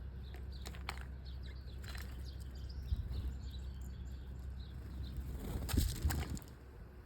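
Small birds giving short high chirps and calls over a steady low rumble, with a louder rustling flurry a little before the end.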